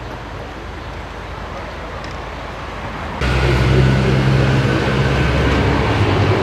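Motor vehicle engine running steadily with a low hum, jumping suddenly louder about three seconds in.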